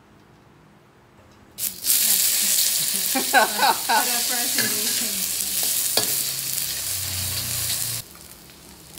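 Diced ingredients hit hot oil in a carbon-steel wok and start sizzling loudly about a second and a half in, while a metal wok ladle stirs and scrapes against the pan, with a sharp knock about six seconds in. The sizzle drops sharply about eight seconds in.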